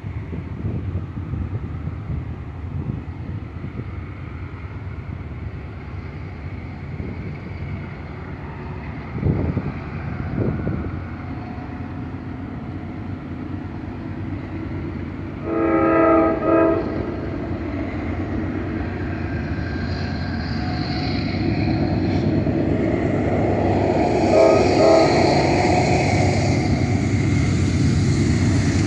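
Approaching CSX freight train: the diesel locomotive's horn sounds a pair of blasts about sixteen seconds in and another pair about twenty-four seconds in, while the locomotive's engine rumble grows steadily louder as it draws near.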